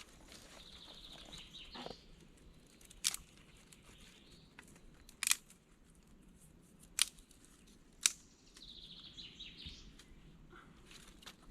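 Birds singing in the forest: a short high trill of quick chirps near the start and another late on. Between them come four sharp cracks or knocks, a second or two apart, louder than the birdsong.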